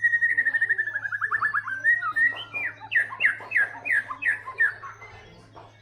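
White-rumped shama singing: a rapid trill of quick repeated notes that slows and drops slightly in pitch, then a string of about eight loud downslurred notes, the song fading about five seconds in. A steady low hum sits beneath it.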